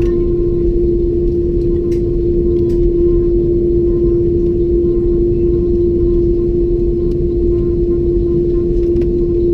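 Steady jet engine and airflow noise inside the cabin of an Airbus A330-200: an even low rumble with one steady mid-pitched hum over it and a few faint clicks.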